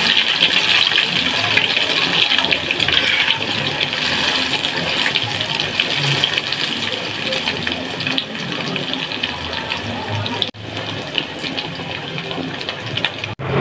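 Egg omelette with shallot leaves sizzling and crackling steadily in hot oil in a wok. The sound briefly cuts out about ten seconds in.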